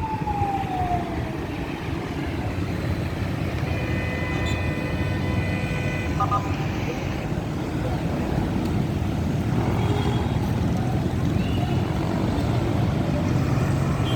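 Heavy road traffic running steadily, with a siren falling in pitch at the start and a steady high tone sounding for a couple of seconds about four seconds in.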